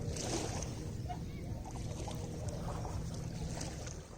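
Lake water lapping and splashing at the shore, a steady low rumbling wash with light splashes, fading out near the end.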